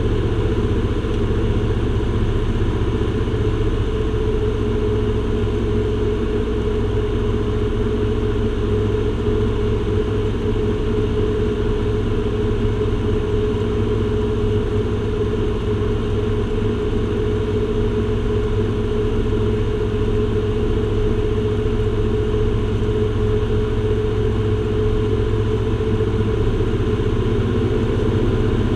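Aircraft cabin noise: the engines drone steadily with an even hum, and a steady tone sits over the low rumble, unchanged throughout.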